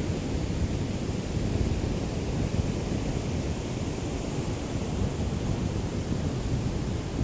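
Small waves of a calm sea lapping on the shore in a steady wash of surf, with a low rumble of breeze on the microphone.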